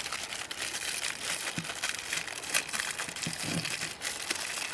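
Crinkling of a foil Pop-Tart wrapper being handled and worked open: a continuous dense crackle.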